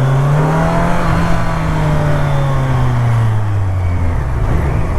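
Motorcycle engine running on the road, its pitch rising slightly, then easing down as the bike slows and dropping away about four seconds in, over steady wind noise.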